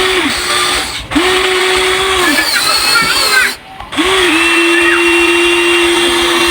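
Huina 1593 RC excavator's electric motors whining as it works, in three runs that start and stop: a short one at the start, one of about a second, and a longer one from about four seconds in.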